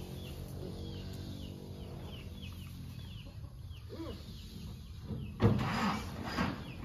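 A bird chirping in quick repeated short falling notes over a low steady hum, which fades after about three seconds. Near the end a sudden, much louder, rough sound cuts in.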